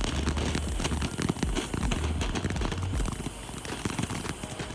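Sparkler firework crackling and fizzing, a dense rapid patter of tiny pops, with a low rumble underneath for the first three seconds.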